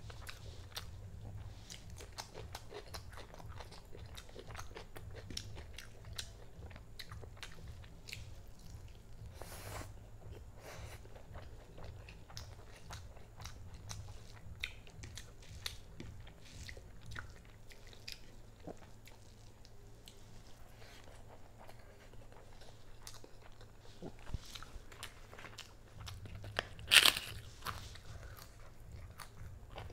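Close-up chewing and biting of a person eating rice and chicken curry by hand: many small wet clicks and smacks throughout, with one loud sharp crunch near the end.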